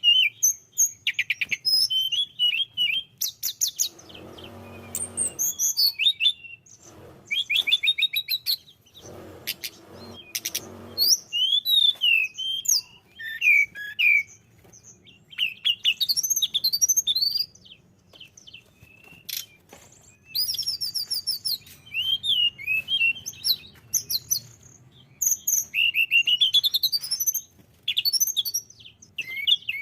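Tledekan gunung (hill blue flycatcher) singing: a fast, varied song of high whistles, rapid trills and sweeping notes in bursts with short pauses. Two lower, harsher buzzing stretches come about four and nine seconds in.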